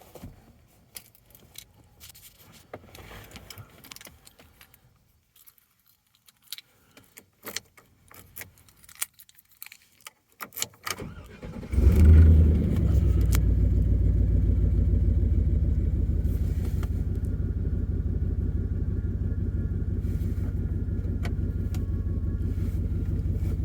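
Faint clicks and jingling of keys, then about eleven seconds in the 2004 Chevrolet Silverado 2500's engine starts with a brief loud rev and settles into a steady, low idle.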